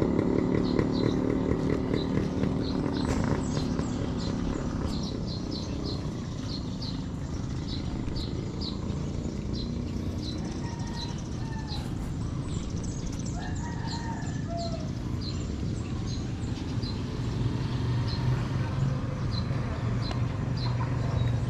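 Outdoor ambience with birds chirping over and over, and a few short calls in the middle. A motor vehicle's engine fades away over the first few seconds, and another vehicle's rumble builds again near the end.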